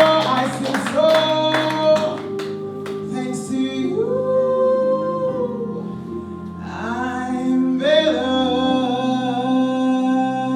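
Female neo-soul singer holding long, wavering sung notes over instrumental accompaniment; sharp percussive strokes sound through the first couple of seconds and then drop away.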